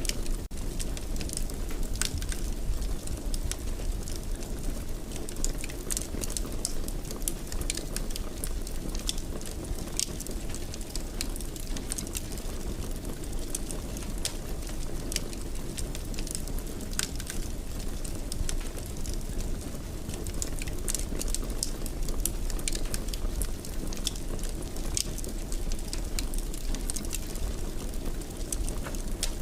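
Wood fire burning in a fireplace: a steady low rumble with frequent small, scattered crackles and pops.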